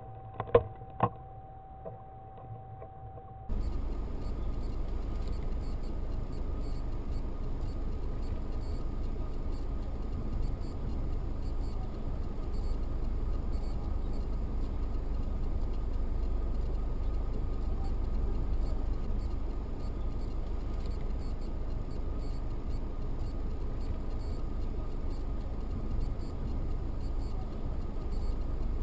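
A car being driven: steady low road and engine rumble with hiss, as picked up by an in-car dashcam. It starts abruptly a few seconds in, after a quiet steady tone broken by two sharp clicks.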